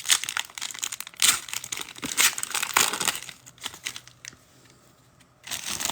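Foil trading-card pack wrapper crinkling and tearing as it is opened. The crackling stops after about three and a half seconds.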